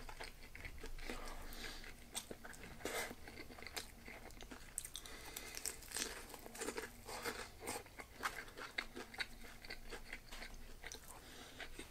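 A person chewing crispy, freshly fried karaage (Japanese fried chicken), with quiet, irregular crunches.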